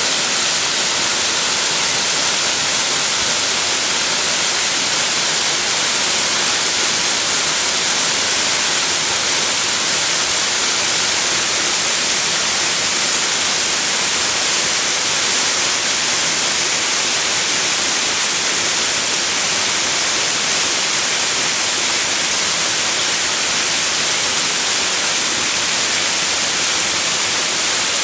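Waterfall pouring: a loud, steady rush of falling water that doesn't change.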